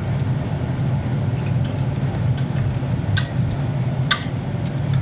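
A steady low background hum from a running machine, with two sharp clicks about three and four seconds in, of hand tools working on the car's wiring.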